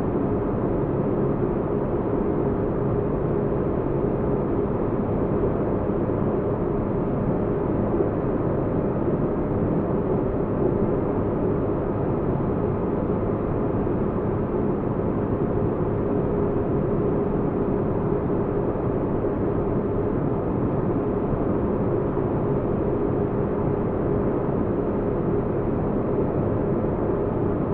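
Steady low spaceship-cabin ambience: a continuous deep hum and rumble, like an engine drone heard inside the ship, with a faint steady tone in the middle and no changes or events.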